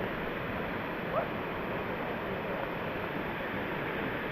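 Waterfall rushing steadily, with a short rising chirp about a second in.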